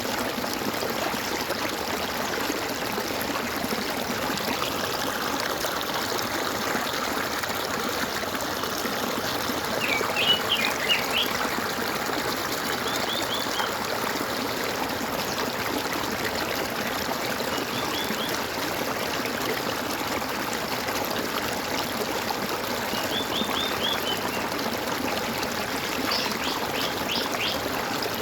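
Water trickling and gurgling steadily in a stream, with birds calling in short quick series of high chirps several times, loudest about ten seconds in.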